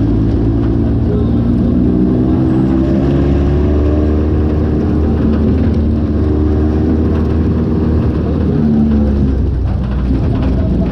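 Off-road buggy (gaiola) engine running under way, its pitch rising and falling as the revs change.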